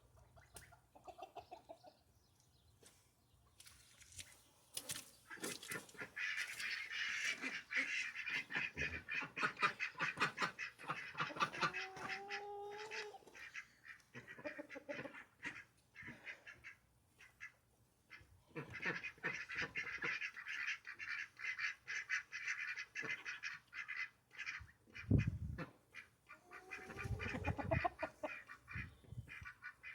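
A group of ducks quacking and chattering in rapid runs, with a couple of longer, rising honking calls, about 12 seconds in and again near the end.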